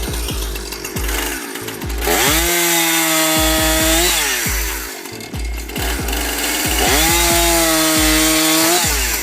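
Chainsaw revved up to full throttle twice, each time rising quickly in pitch, holding steady for about two seconds and then dropping back.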